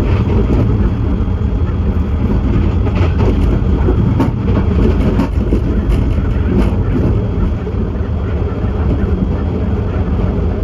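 Train running along the line, heard inside the trailing DL class diesel locomotive's cab: a loud steady low rumble of wheels and running gear with scattered irregular clicks and knocks.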